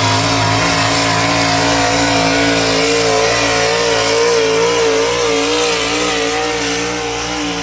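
Competition pulling vehicle's engine running at full throttle under heavy load while dragging the weight sled, its pitch wavering up and down.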